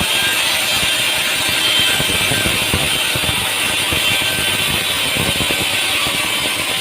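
Sawmill machinery running, with a steady hiss and a dense, irregular clatter of rattling and clicking parts.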